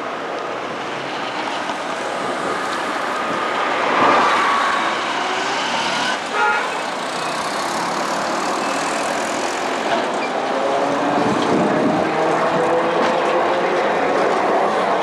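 Vehicle running noise. About four seconds in a pass swells and its pitch falls; a brief stepped toot sounds around six seconds; from about ten seconds a motor whine climbs slowly in pitch.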